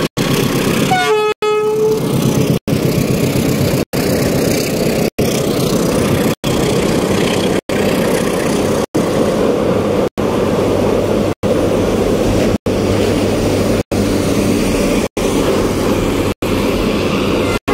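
Steady road traffic noise with a short vehicle horn toot about a second in. The sound drops out briefly at regular intervals, about every second and a quarter.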